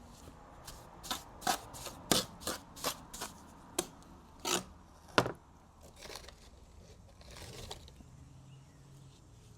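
A trowel chopping and scraping through stiff, freshly mixed mortar on a flat board: about a dozen short, irregular strokes over the first five seconds, then only a faint rub.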